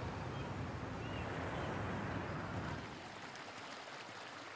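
Outdoor wind and water ambience, an even wash of noise with no distinct calls, which drops to a quieter level about three seconds in.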